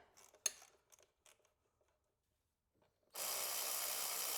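A few light metallic clicks of tool handling, then a small electric motor such as a power tool runs steadily for about two seconds, starting and stopping abruptly.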